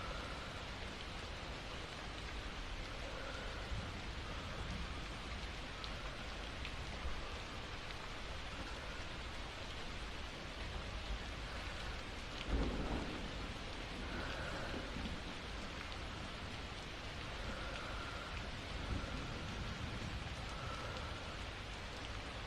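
Steady rain falling, with a short low rumble of thunder just past halfway.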